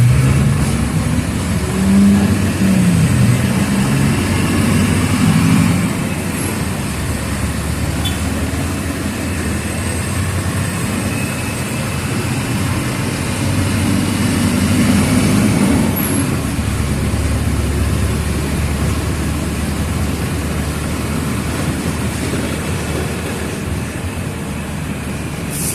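Mercedes-Benz OF 1722M city bus diesel engine running under way. For the first six seconds the engine note rises and falls as the bus pulls through the gears, then it settles to quieter, steadier running, swelling again about fourteen seconds in.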